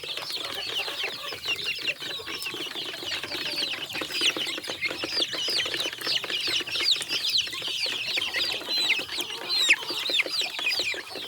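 A flock of Dominant CZ hybrid chickens peeping and clucking, many short high falling calls overlapping without a break.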